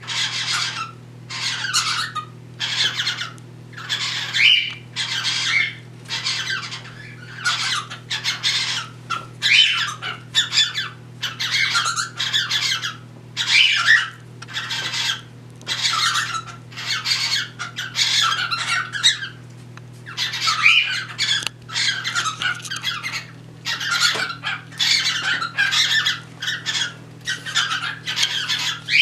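Cockatiels squawking, a harsh rasping call repeated over and over, about one to two calls a second, over a steady low hum.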